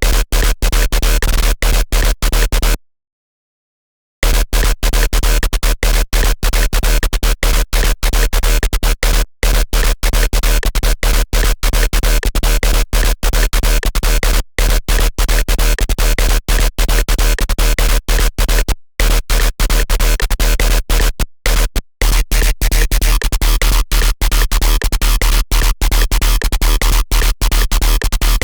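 Harsh, gritty electronic synth tones from a Serum wavetable patch, played in choppy, stuttering notes over a steady deep bass. The sound is cut by many brief gaps and stops completely for about a second near the start.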